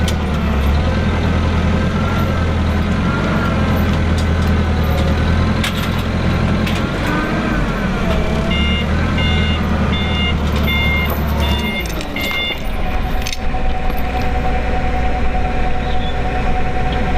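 A loading machine's engine runs under changing load with a wavering whine. About two-thirds of the way through, its back-up alarm beeps six times, evenly spaced. After that a steadier engine hum with a constant tone takes over.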